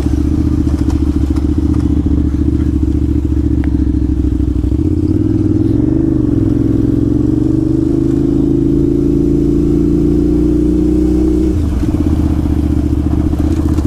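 Adventure motorcycle engine running under way on a dirt trail. Its pitch climbs steadily through the second half as it accelerates, then drops suddenly near the end as the throttle closes.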